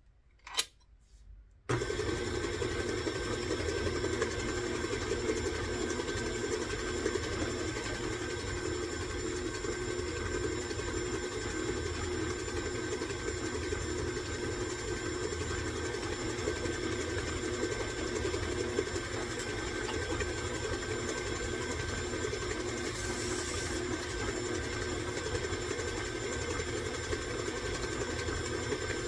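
Electric stand mixer switched on about two seconds in and running steadily, beating butter and sugar into a creamed batter.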